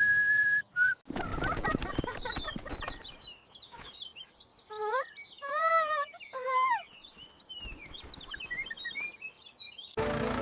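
Birds chirping and calling, with a rapid clattering flutter about a second in and a few louder, drawn-out calls around the middle, after a brief whistle at the very start.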